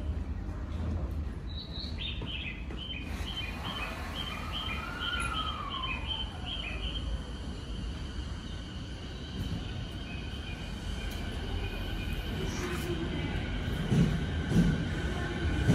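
A JR 209 series electric train starts to pull away from a platform, its motor whine rising and its wheels knocking loudly twice near the end. Before it moves, a steady station rumble with a quick run of high chirping notes, like a small bird, a few seconds in.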